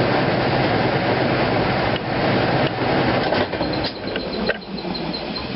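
Kenmore 500 top-load washing machine running near the end of its cycle: a loud, steady rushing rumble that eases off about three and a half seconds in, when a quick run of faint high ticks starts.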